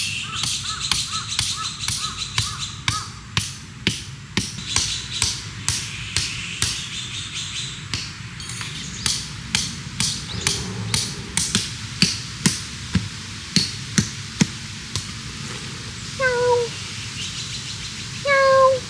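A steady run of sharp clicks or taps, about two to three a second, with two short whining animal calls near the end.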